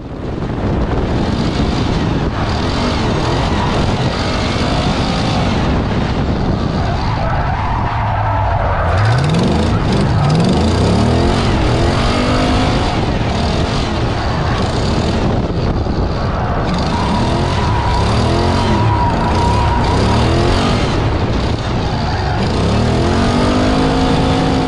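Drift car engine revving hard, its pitch sweeping up and dropping back again and again, over the continuous hiss and squeal of sliding tyres.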